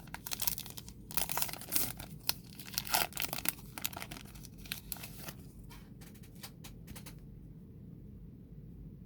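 Baseball cards being handled and flipped through, a crinkly rustling with quick clicks that is busiest in the first few seconds and dies away about seven seconds in.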